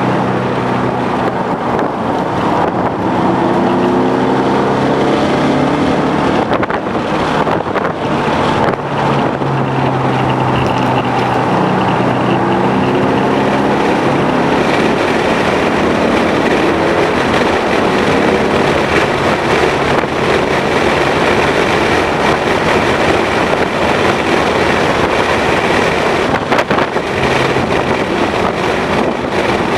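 2011 Ford Mustang GT's 5.0-litre V8 being driven hard on a race track, its pitch climbing under acceleration a couple of times in the first half, mixed with heavy wind and road noise.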